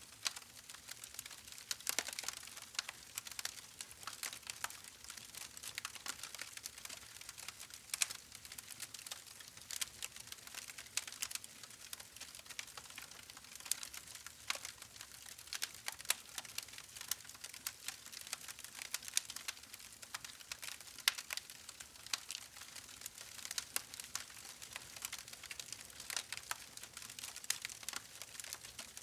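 Wood fire burning in a fireplace, crackling with many sharp, irregular pops and snaps over a faint hiss.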